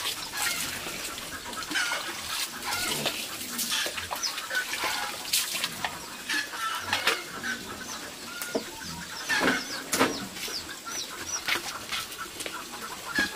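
Chickens clucking and calling, with many short, high calls overlapping and the odd knock.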